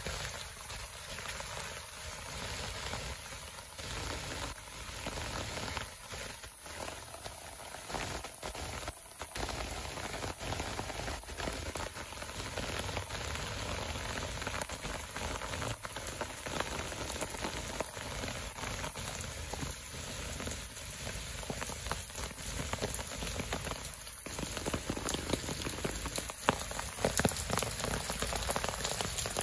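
Steady heavy rain falling on leaves and puddled ground, a constant hiss of drops, with louder close drop hits standing out near the end.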